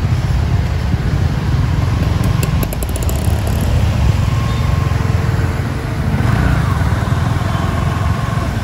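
Ferrari 812 Superfast's 6.5-litre V12 running at low revs as the car creeps along, a steady deep rumble mixed with the engines of scooters and motorcycles riding alongside.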